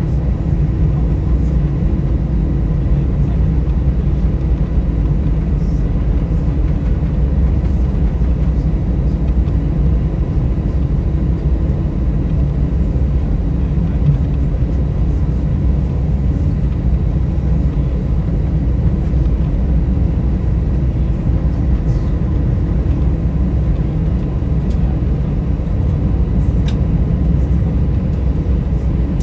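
Steady engine and airflow rumble heard inside the cabin of an Airbus A320 airliner, deep and even, with a faint steady hum above it.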